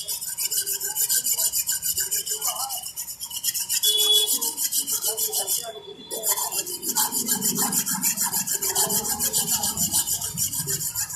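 Rapid, rhythmic scraping on the heat-fixing roller of a Canon copier, working off caked-on toner, the build-up that causes its paper jams. The strokes pause briefly about six seconds in.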